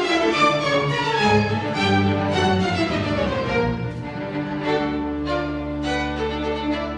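Chamber string orchestra playing, with violins carrying a line that falls in pitch over the first few seconds, then long held low notes in the cellos and basses from about five seconds in.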